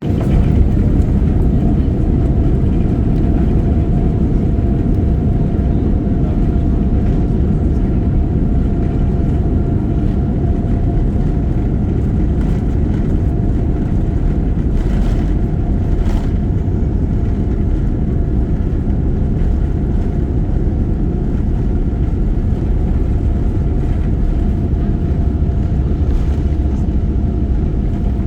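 Airliner engines running, heard inside the passenger cabin: a loud, steady rumble with a constant whine over it.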